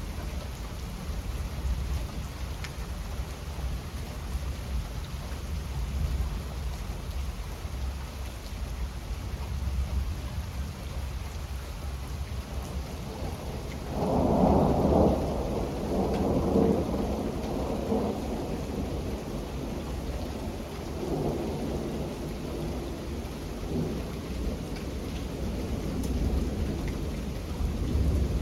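Steady rain with a constant low rumble underneath. About halfway through, a roll of thunder builds in several waves for a few seconds, and a weaker roll follows shortly after.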